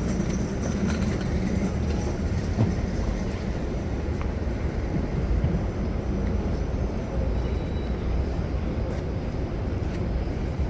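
Steady low rumble of vehicles in the city, even throughout with no single event standing out.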